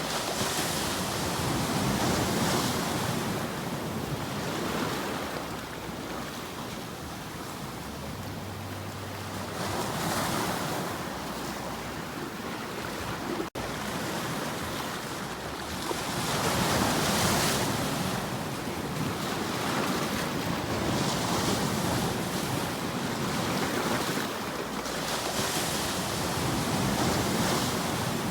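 Ocean waves breaking and washing on a shore, the surf rising and falling in swells every few seconds, with a brief dropout about halfway through.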